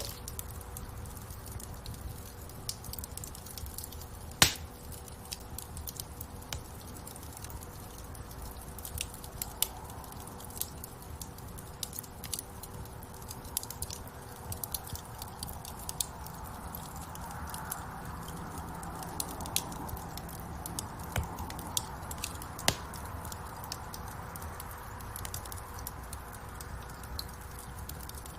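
Wood fire burning in a fireplace: a steady low rumble of flame with irregular crackles and small pops from the burning logs, and one louder pop about four seconds in.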